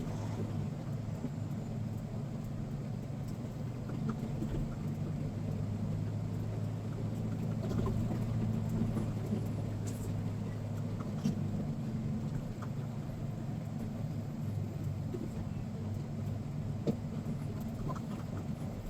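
Semi-truck's diesel engine running with a steady low hum, heard from inside the cab, with a few faint clicks.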